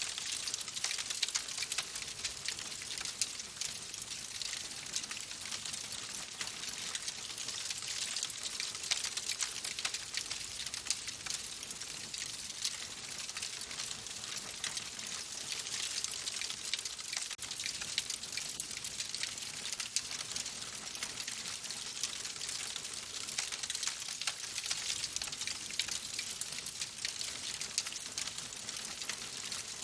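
Wood fire in a fireplace crackling: a steady hiss with dense small pops and snaps throughout.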